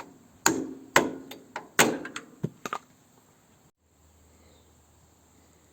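Hammer blows on metal, each strike ringing briefly: about six strikes, uneven in spacing, in the first three seconds, then only a faint low hum.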